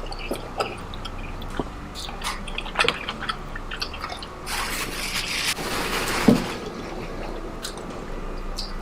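Close-miked mukbang eating sounds: wet chewing, lip smacks and squishing, with a longer stretch of wet, noisy squelching around the middle that ends in a sharp smack.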